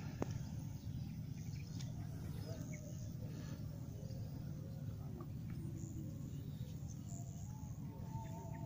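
Faint, scattered bird chirps over a steady low rumble of outdoor ambience.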